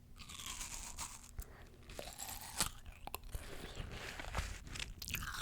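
Close-miked biting and chewing of crunchy fresh fruit: wet crunching with many sharp bites and mouth clicks.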